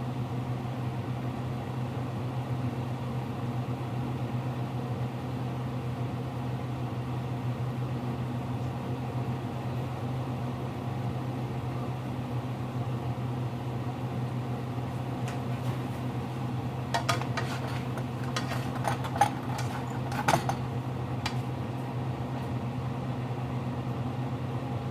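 Steady low hum of a kitchen appliance running. About two-thirds of the way through comes a short run of clinks and clatter of kitchenware.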